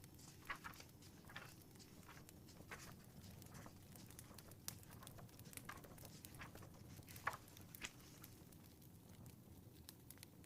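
Faint wood fire in a fireplace crackling, with irregular sharp pops over a low steady rumble.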